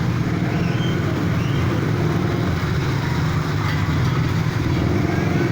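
Vehicle engine running steadily at low revs, over an even hiss of rain and floodwater.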